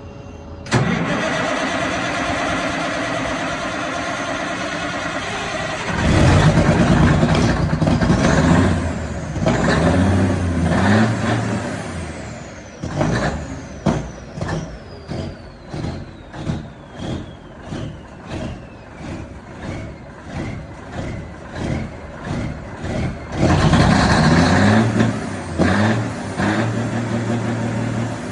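Cummins Big Cam Formula 350 inline-six diesel being cold-started in freezing weather. It cranks steadily for about five seconds, catches about six seconds in, and then runs rough and uneven with loud swells in speed. Through the middle it pulses about once a second under a whine falling in pitch, and near the end it swells loudly again.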